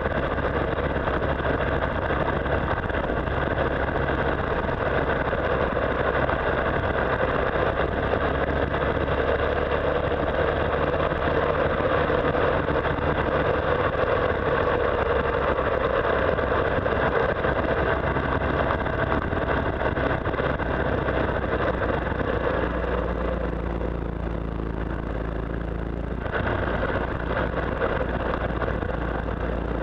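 Motorcycle engine running steadily at cruising speed, heard on board with wind and road noise. A little over twenty seconds in, the engine note drops for a few seconds as the throttle eases, then picks up again.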